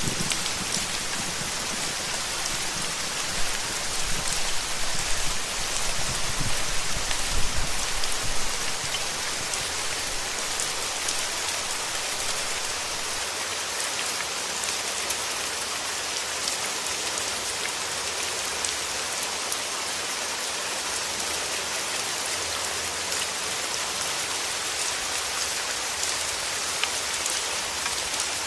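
Steady rain falling, an even hiss with fine drop patter. A low rumble of thunder runs under it for about the first eight seconds, then dies away.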